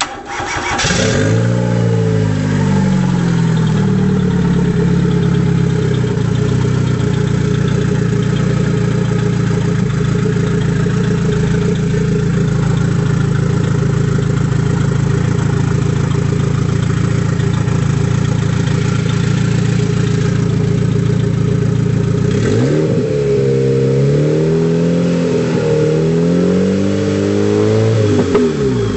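Fiat Tipo Turbo engine starting, flaring up in revs and settling to a steady idle. Near the end the throttle is blipped about three times, the revs rising and falling each time.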